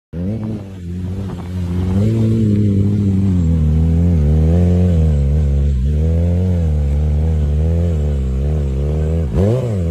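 Motorcycle engine running with the throttle worked, its pitch rising and falling gently, then a quick drop and surge of revs near the end.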